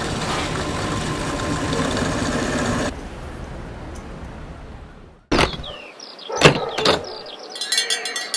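A motor vehicle engine runs steadily for about three seconds and cuts off abruptly. A quieter hiss follows, then a few short, sudden sounds with sliding pitch.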